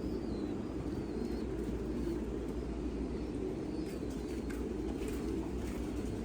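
Domestic pigeons cooing, many at once, making a steady low murmur over a low rumble, with a few faint high chirps.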